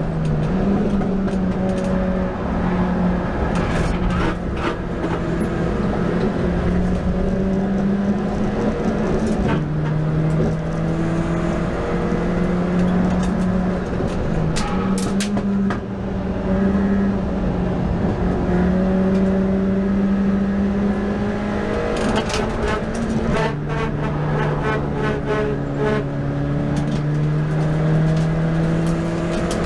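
Ford Fiesta race car's engine heard from inside the cabin, running at steady high revs at race pace. Its pitch drops at two gear changes, with a cluster of clicks and knocks about two-thirds of the way through.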